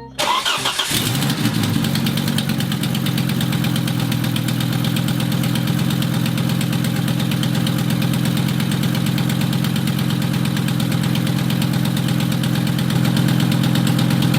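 1996 Volvo 850's 2.5-litre 20-valve inline five-cylinder engine cranks briefly, catches within about a second and runs at a steady idle. The ignition leads for cylinders 4 and 5 have just been put back in the right order, and it is now running on all five cylinders after a head gasket replacement.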